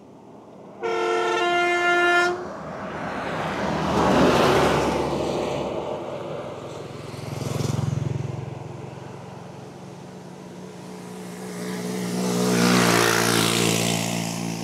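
A vehicle horn sounds once for about a second and a half. Then road traffic passes close by in three swells, the last with a running engine.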